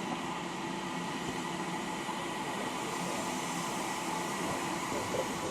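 Steam locomotive venting steam with a steady, even hiss.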